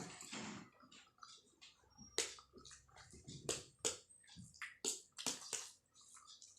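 Close-up eating sounds of someone chewing Maggi instant noodles: a string of sharp, wet clicks and smacks at irregular intervals.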